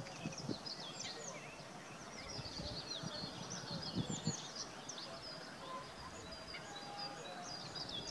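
Several small songbirds chirping and singing in quick high notes, one after another, over faint outdoor background noise.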